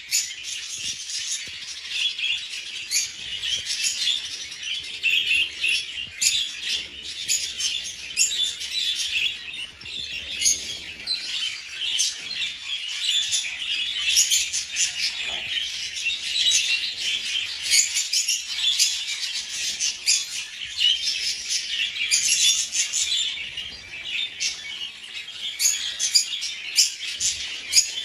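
A flock of budgerigars chattering continuously, a dense mix of short chirps, warbles and clicks.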